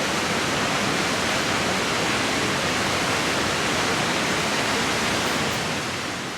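Steady, loud roar of a large waterfall, Niagara Falls, a dense even rush of water, fading out near the end.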